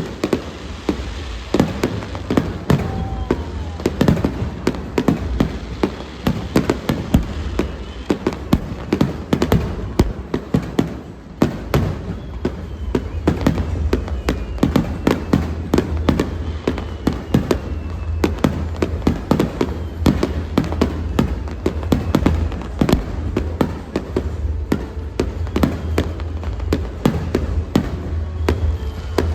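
Fireworks going off in rapid succession: a dense run of sharp bangs and crackles, several a second, over a steady low rumble.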